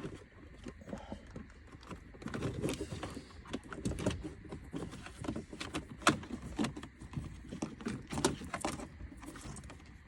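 Hands pulling and handling parts and wiring behind a car's dashboard: irregular clicks and knocks with rustling in between.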